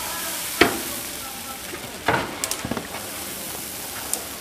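Food frying in a large cooking pot, a steady sizzle, with several sharp knocks of a utensil against the pot as it is stirred.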